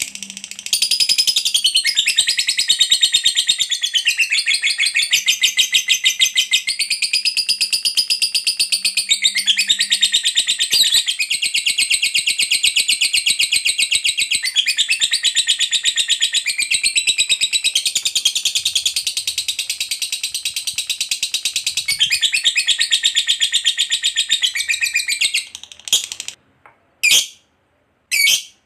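Lovebird singing a long unbroken 'ngekek': a very fast, rattling chatter of rapid high notes held for over twenty seconds. It cuts off suddenly near the end, followed by a few short separate calls.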